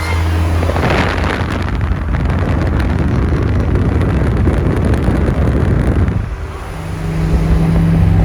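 Car engine running while driving, mixed with heavy wind and road noise. The sound eases briefly about six seconds in, then the engine note picks up again.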